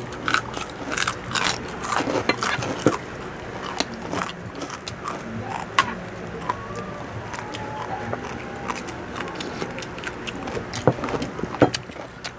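Two people biting and chewing crispy pork chicharon (deep-fried pork rinds), a run of sharp, irregular crunches that is densest in the first few seconds.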